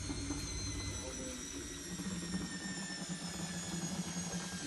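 Zanussi Lindo 100 washing machine in its final spin, the motor whining with several steady high tones over a low drum rumble. The rumble fades about a second in, and a steady low hum takes over.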